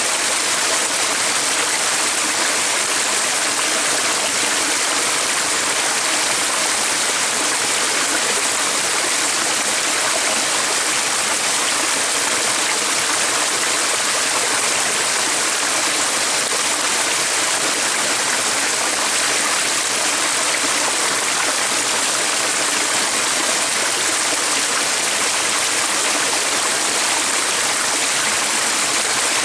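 Running water of a stream flowing steadily: an even, unbroken rushing hiss, strongest in the upper range.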